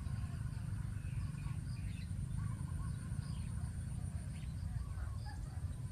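Birds chirping faintly in the open, with a steady high insect whine behind them, over a loud continuous low rumble.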